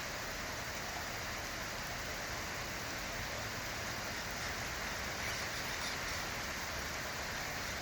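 Rain falling steadily, a constant even rush.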